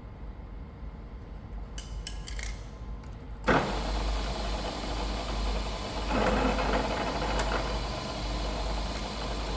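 Machine tool cutting steel: a low steady hum, then about three and a half seconds in a sudden loud start of rough, gritty cutting noise that carries on, growing louder in stretches, as the tool bites into the metal.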